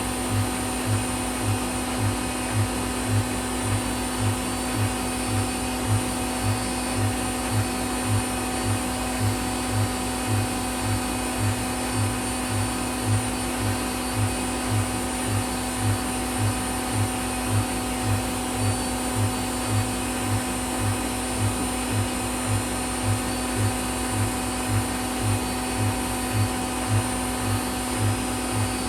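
Whirlpool WWDC 7440 washing machine spinning at high speed: a steady motor whine with a regular low thump from the turning drum about twice a second.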